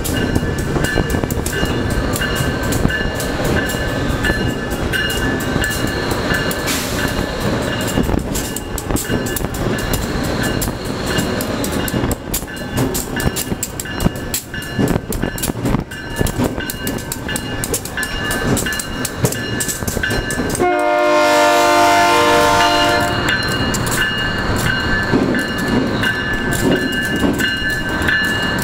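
Diesel locomotive running as it tows a train of retired R32 subway cars along street track, with rolling wheels and a steady high-pitched tone. About three-quarters of the way through, a locomotive horn sounds one blast of about two seconds.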